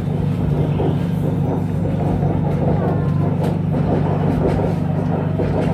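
BTS Skytrain car running, heard from inside the carriage: a steady low hum of the train in motion with the rumble of wheels on the track and a few light clicks.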